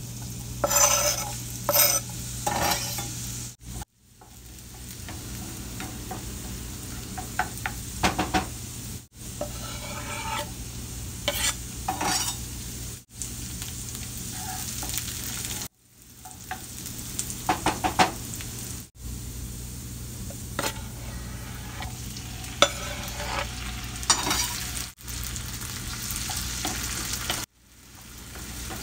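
Food frying in oil in a pan, with a steady sizzle and a utensil stirring and scraping against the pan in frequent sharp clinks. The sound drops out briefly several times.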